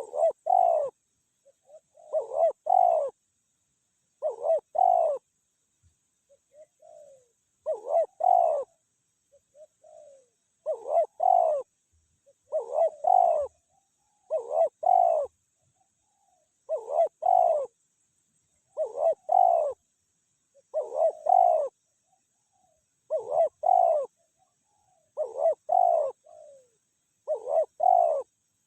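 Spotted dove cooing, a repeated pattern of paired coo notes about every two seconds, with softer short notes in between.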